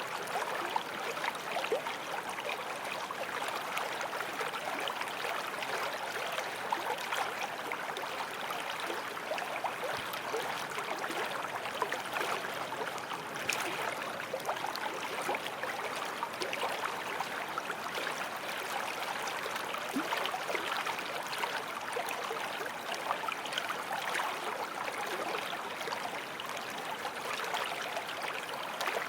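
Forest stream flowing steadily over stones, a continuous babble and trickle of water with small splashes throughout.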